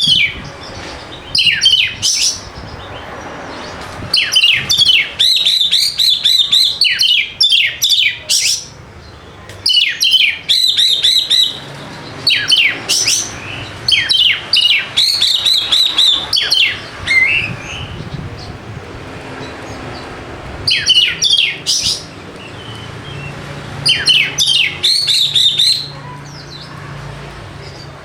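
Oriental magpie-robin (kacer) singing: fast runs of sharp chirps and whistled notes in phrases a second or two long, broken by short pauses. It is the energetic song of a fired-up kacer, of the kind played as a lure to set a quiet bird singing.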